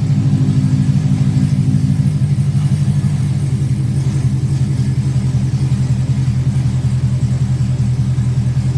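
Car engine idling through an aftermarket Borla exhaust just after a warm start, with a steady pulsing rumble. The idle eases down slightly over the first couple of seconds.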